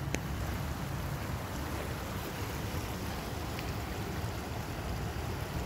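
Steady rush of storm runoff flowing through a culvert about four feet across, with a fluctuating low rumble of wind on the microphone.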